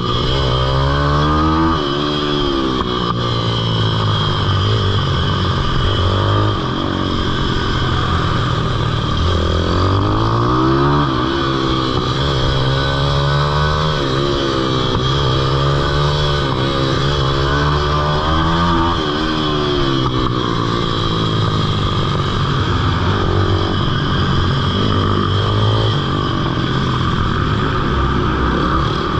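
Pit bike engine running hard on a track, its pitch climbing and dropping again and again as the rider opens and closes the throttle, with a steadier low engine hum underneath.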